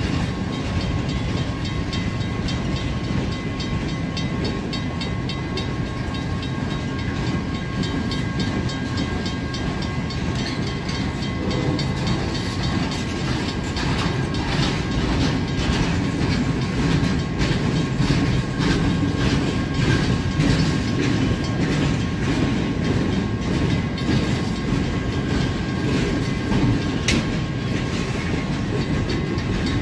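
Empty military flatcars rolling past with a steady rumble, the wheels clacking over the rail joints.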